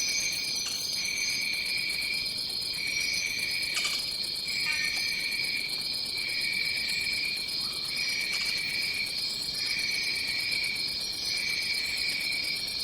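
Tropical rainforest insect chorus: a steady high-pitched drone, with a lower chirring that comes in phrases about a second long with short breaks between them. A few faint chirps sound above it.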